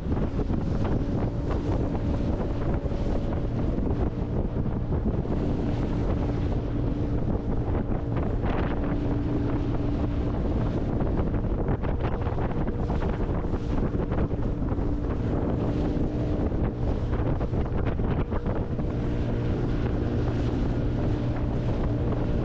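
A boat motor running steadily, with gusty wind noise on the microphone.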